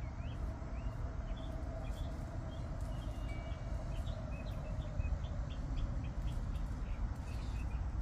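Small birds chirping, with a quick run of short repeated chirps in the middle, over a steady low rumble.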